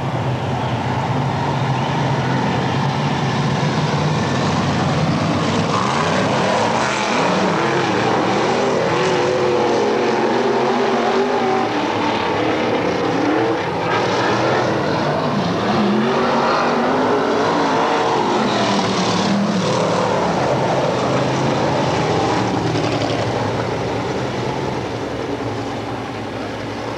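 Dirt-track race car engines running at speed, their pitch rising and falling in waves as cars come by and go away, several times.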